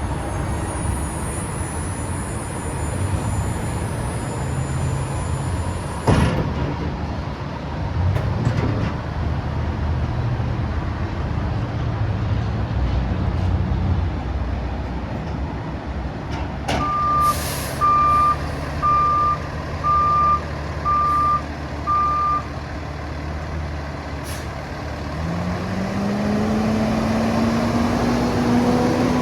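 The 2020 Kenworth T370 box truck's 8.9L Paccar PX-9 diesel engine runs throughout. Partway through, its backup alarm beeps six times, about once a second. Near the end the engine's pitch rises steadily as it speeds up.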